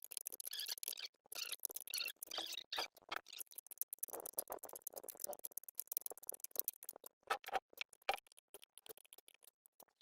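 Irregular clicking, scraping and light rattling, typical of hand tools and small metal engine parts being handled during work on a generator engine.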